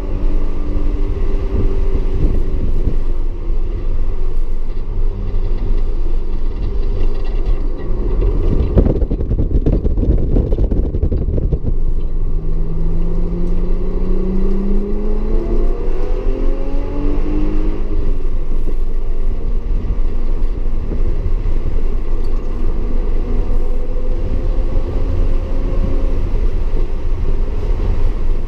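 Audi S4 engine under hard track driving, its pitch climbing with each pull and dropping at shifts and braking. A rough, noisy stretch runs from about nine to twelve seconds in, then the engine note rises steadily again.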